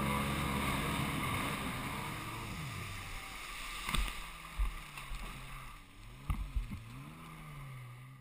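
Jet ski engine running and fading away, its low note wavering up and down in the second half, with a few sharp knocks around the middle.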